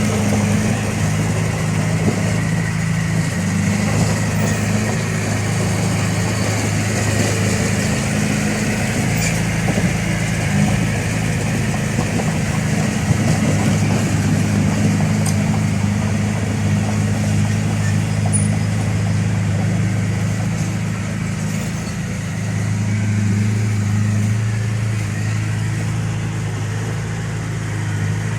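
Heavy diesel engine of an earthmoving machine running steadily, with a slight shift in engine pitch about two-thirds of the way in.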